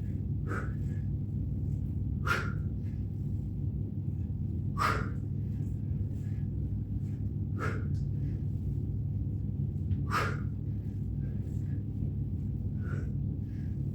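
A man's forceful exhalations during exercise reps, six of them, about one every two and a half seconds, over a steady low rumble.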